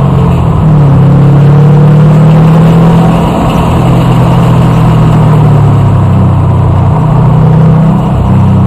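A vehicle engine running loud at fairly steady revs, with road and wind noise.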